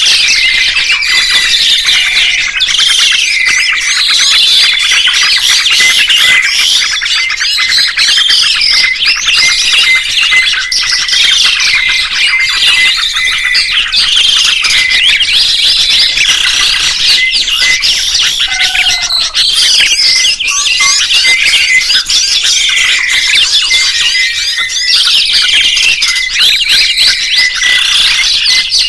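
Songbirds singing and chirping without a break: many quick whistled notes rising and falling over one another, with a run of short notes repeated at one pitch underneath.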